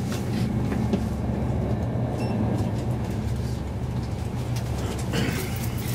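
VR InterCity train running at speed, heard from inside the passenger car: a steady low rumble with scattered light clicks and rattles.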